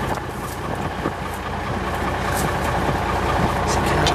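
Cummins NHC 250 inline-six diesel of an M931A1 5-ton army truck idling steadily. A few light clicks come through as an air hose fitting is handled.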